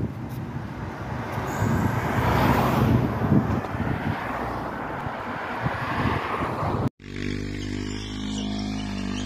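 Sport motorcycle engine sound, rough and noisy, swelling for a moment about two to three seconds in. About seven seconds in it cuts off abruptly and a steadier, even engine note takes over.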